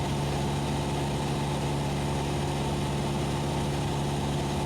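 Cessna 172SP's four-cylinder Lycoming piston engine and propeller droning steadily in flight, heard in the cabin during a descent.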